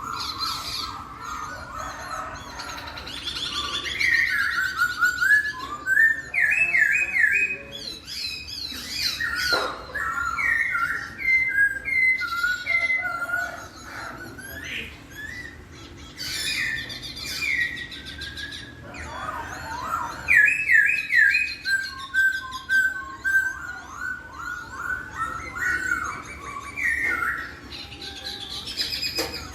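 Poksay (laughingthrush) singing: loud, varied whistled phrases built of quick repeated notes, coming in runs with short pauses between.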